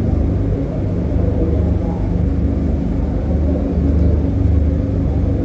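Electric air blower of an inflatable bounce house running with a steady low drone and hum.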